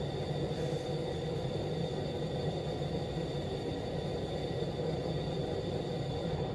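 Propane-air combustion chamber burning steadily, a continuous low rumble with two faint steady high tones above it.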